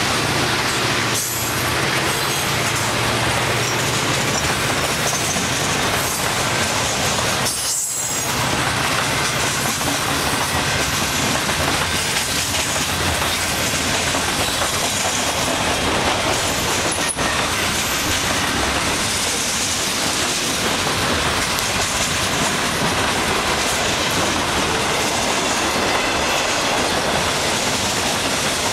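Cars of a long mixed freight train rolling steadily past: a continuous loud rush of steel wheels on rail, with brief dips about a second in, about eight seconds in and near seventeen seconds.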